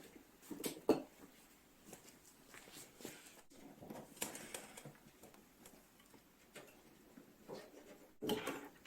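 Scattered soft taps and knocks with some rustling, irregular. The sharpest knock comes about a second in and a cluster of them near the end.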